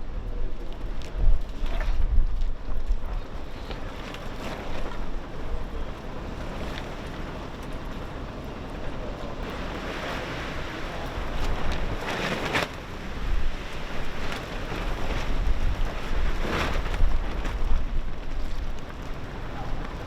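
Strong gusty wind buffeting the microphone, rumbling in gusts, with a louder rushing surge around the middle and a few brief sharp noises.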